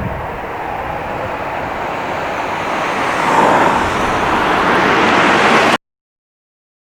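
Jet airliner engine noise, a steady rush that grows louder and cuts off suddenly near the end.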